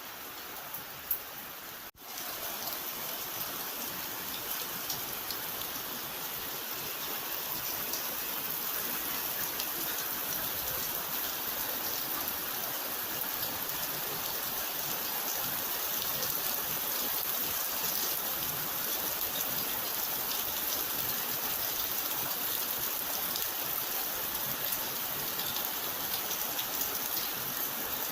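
Steady rainfall, an even hiss of many drops. It is broken about two seconds in by a brief dropout, and the rain is slightly louder after it.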